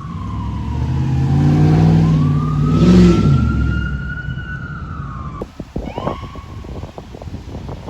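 Emergency vehicle siren on a slow wail, falling then rising again, as the vehicle passes close, loudest about three seconds in. Near the end the wail breaks off and a shorter rising siren tone follows, with scattered knocks.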